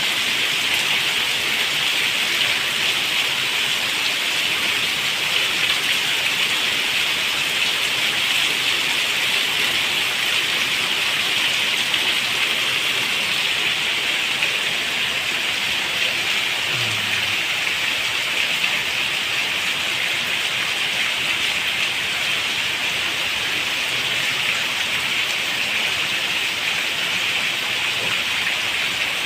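Steady rain falling, an even hiss that keeps on without let-up.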